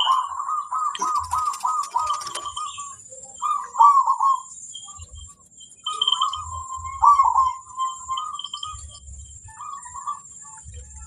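Zebra doves (perkutut) cooing: a quick run of short repeated coo notes in the first two seconds or so, then shorter cooing phrases a few seconds apart. A faint steady high-pitched tone and a few small chirps run underneath.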